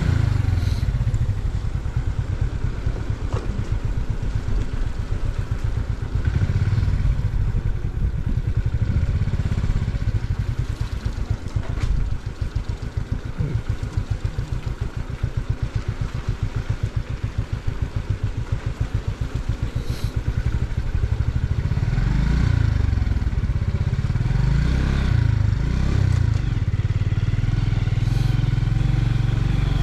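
TVS Victor motorcycle's single-cylinder four-stroke engine running under way, with firing pulses throughout. The engine note drops somewhat in the middle, then rises and falls a few times near the end as the throttle is worked.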